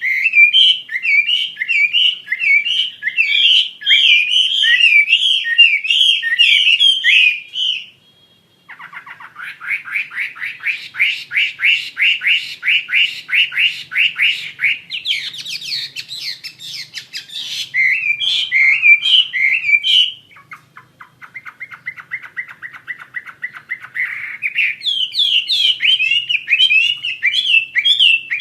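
Blue magpie (wambi mandarin) singing loudly and continuously in varied rapid chirping phrases. After a brief pause it runs into long fast trills, one lower and quieter, then returns to chirping.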